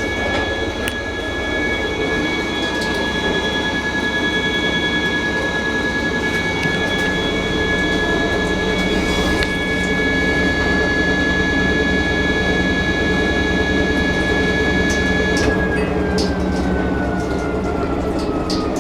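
Fisher & Paykel MW512 washing machine running, its motor giving a steady high whine over a low rumble; about 15 seconds in the whine starts falling steadily in pitch as the motor slows down.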